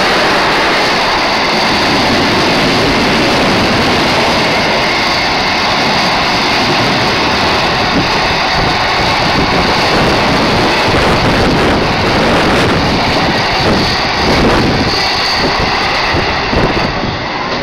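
Container freight train rolling past close by: a loud, steady rumble and rattle of wagon wheels on the rails. Near the end an electric passenger train passes close on the adjacent track.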